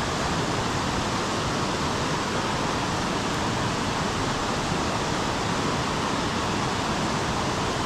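Steady rush of fast-flowing creek water, an even hiss with no breaks.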